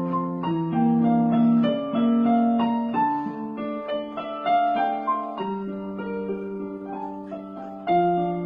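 Piano playing a slow melody over held bass chords, with a new chord struck loudly near the end.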